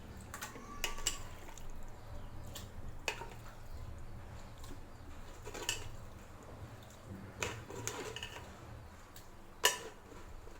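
Scattered clinks and knocks of kitchen utensils and dishes, about ten sharp strikes at uneven intervals over a low steady hum, the loudest near the end.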